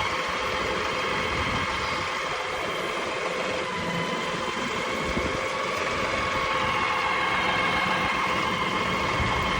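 Farm tractor engine running steadily in low gear, with a constant whine over the engine noise.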